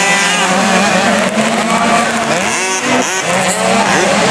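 Several 50cc two-stroke motocross bikes racing, their engines revving up and falling back over one another as the riders work the throttles, the pitches crossing and dipping.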